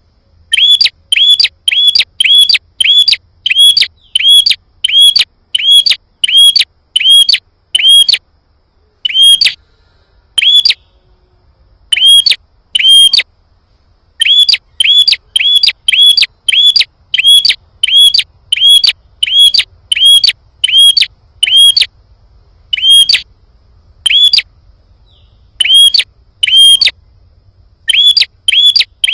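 A prenjak (prinia) giving loud, sharp, hooked chirps over and over, about two a second, in runs broken by short pauses. It is the excited calling used as a lure to provoke wild prenjak into answering.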